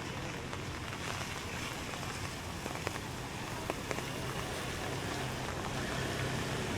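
Steady street ambience of motor traffic with rain, a low engine hum under an even wash of noise, and a few short sharp taps about three to four seconds in.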